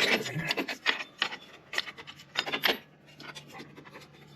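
Metal drum-brake parts (shoes, return springs and adjuster) clicking and scraping against each other as they are fitted by hand, a quick run of sharp clicks over the first three seconds, then quieter.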